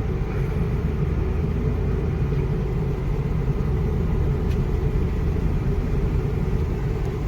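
A car driving at steady speed, heard from inside the cabin: an even low rumble of engine and tyre noise.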